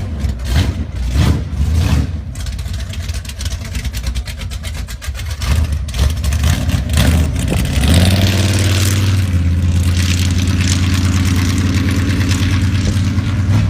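Square-body Chevy mud truck's built, cammed engine running with a choppy, uneven note at low speed. About eight seconds in it comes onto the throttle and pulls away with a steady, loud engine note.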